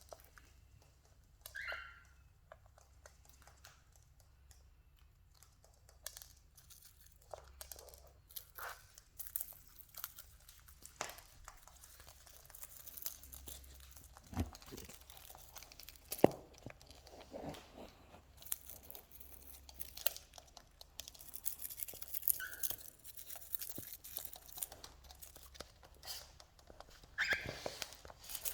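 Cockatiels pecking at and cracking grains and seeds: irregular crunching and crackling clicks, sparse at first and busier after a few seconds, with a few brief high notes.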